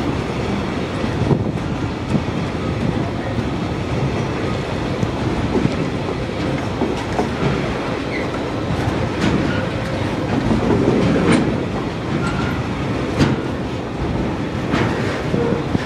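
TasRail container freight train's flat wagons rolling past at close range, their wheels clattering over the rail joints with a steady rumble. Sharp clanks and brief wheel squeals come now and then, mostly in the second half.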